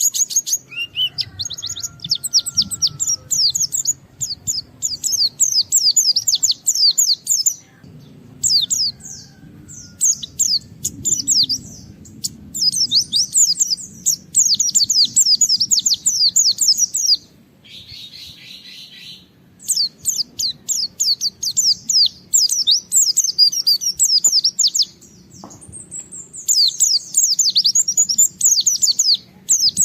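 A pleci (white-eye) singing in loud, rapid phrases of fast, high, downward-sweeping chirps, several seconds each with short pauses between. About 18 seconds in, one shorter, harsher buzzy phrase breaks the run.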